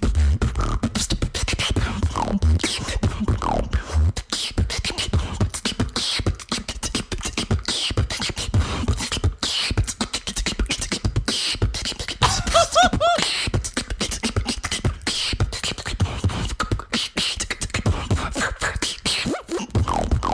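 A female beatboxer performing: a fast, dense vocal beat of kicks, snares and hi-hat clicks over deep bass hits, with a short wavering pitched vocal effect about two-thirds of the way through.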